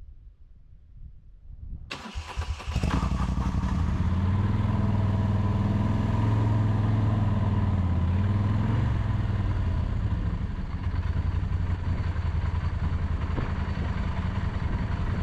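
V-twin motorcycle engine started about two seconds in, catching and then running steadily with a deep, even note that wavers slightly midway.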